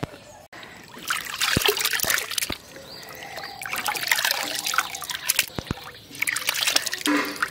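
Cut pieces of forest potato (bon alu) handled in a vessel of soaking water: splashing and trickling, with sharp knocks of the pieces against each other and the vessel.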